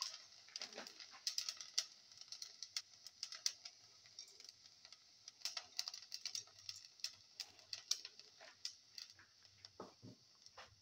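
Dry vermicelli crackling faintly in hot ghee in a steel pan: many small irregular clicks over a soft, steady sizzle, with a couple of duller knocks about a second in and near the end.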